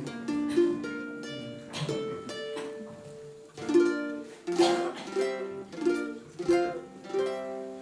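Small acoustic guitar played solo: single plucked notes and struck chords that ring on, a short instrumental phrase.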